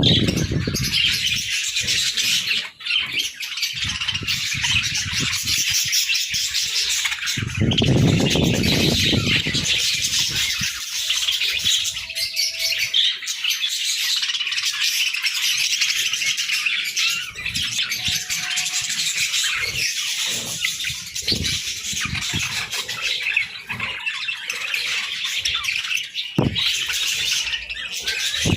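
A flock of budgerigars chattering and chirping without a break, a dense warbling with squawks mixed in. A low rumbling noise comes in during the first couple of seconds and again around eight to ten seconds in.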